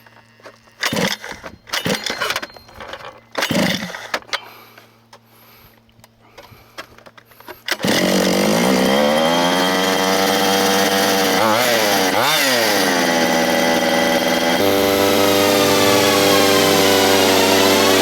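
Pull-start cord of the Dynamite CY23cc two-stroke gas engine yanked three times in short bursts. About eight seconds in, a loud continuous droning sound with gliding pitch starts and runs on.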